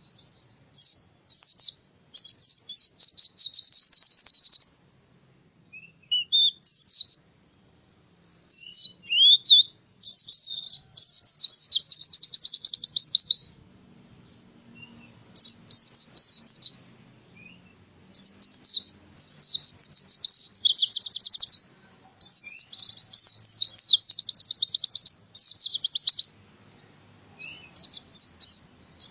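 White-eye (pleci) in full, vigorous song: phrases of quick, high twittering chirps that run into fast trills lasting a second or more, separated by short pauses.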